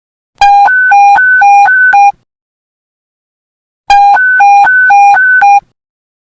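Police panic button alert tone: a loud two-tone electronic beep alternating quickly between a low and a high pitch, sounded in two bursts of under two seconds each with a pause of about a second and a half between them.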